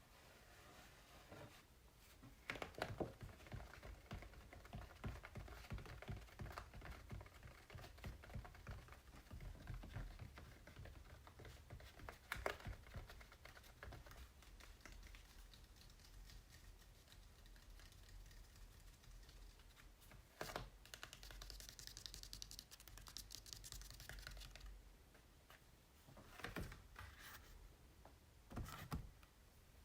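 Tapping and tracing on acrylic paintings on canvas: runs of quick, soft taps and clicks, with a stretch of scratchy rubbing a little past two-thirds of the way through.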